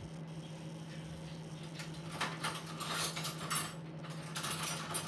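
Microwave oven running with a steady low hum. From about two seconds in come irregular rattling bursts in two groups.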